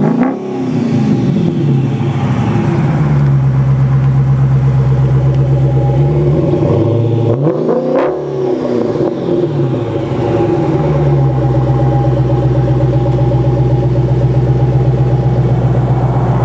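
2015 Dodge Challenger R/T Scat Pack's 392 (6.4-litre) HEMI V8 exhaust at a stationary idle. The pitch falls back from a rev at the start. Midway it is revved once, rising over about a second and a half and falling back over a few seconds, then idling steadily again.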